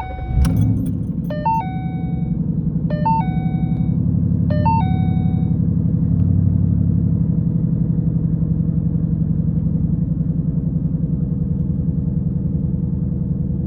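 2013 Ford Mustang Boss 302's 5.0-litre V8 firing up from cold and settling into a steady, fast cold idle. A dashboard warning chime rings four times in the first five seconds.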